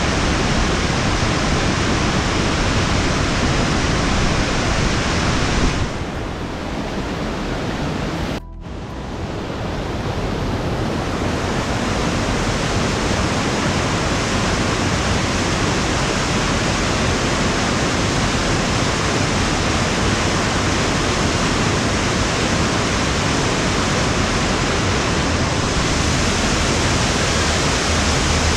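Waterfall rushing in a steady roar. About six seconds in it turns duller and quieter, drops out for a moment about two seconds later, then comes back to full strength.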